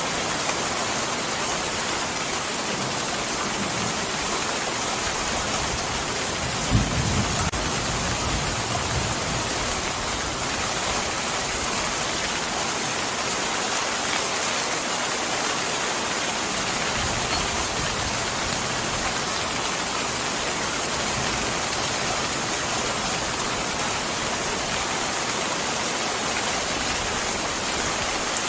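Steady heavy rain falling, with a short low rumble of thunder about seven seconds in.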